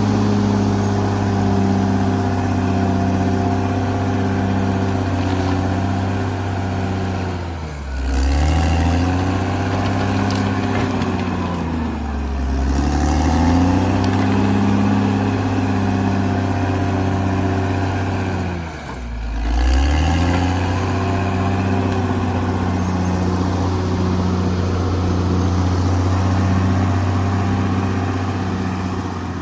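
Caterpillar D6R XL bulldozer's diesel engine running steadily. Its pitch sags and climbs back three times, about a quarter, two fifths and two thirds of the way through.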